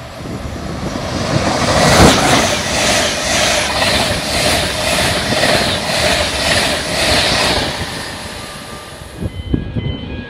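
Express passenger train passing through the station at speed: a loud rush of wheels and air that builds over the first two seconds, pulses about twice a second as the coaches go by, then fades away.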